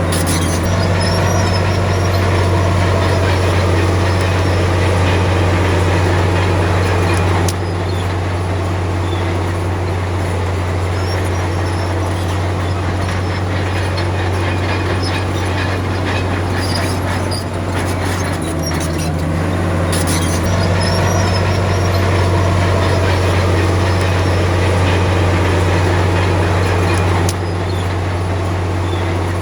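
Komatsu D53P crawler bulldozer working, its diesel engine running with a steady low drone under a dense metallic rattle. The sound drops sharply in level twice, once about a third of the way in and again near the end.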